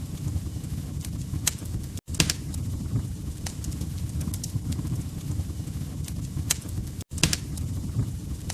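Wood fire crackling: a steady low rumble of burning with sharp pops and snaps scattered irregularly through it. The sound cuts out for an instant about two seconds in and again about seven seconds in, and a loud pop follows the first cut.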